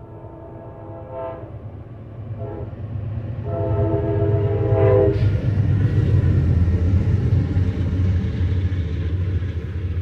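Passing train sounding its horn: a long blast, a short one about two seconds later, then another long blast. Then the deep rumble of the train grows loud as it goes past.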